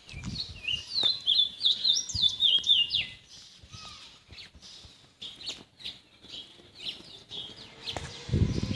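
Birds chirping in quick, high trills for the first three seconds, then more softly, with a few low thuds near the end.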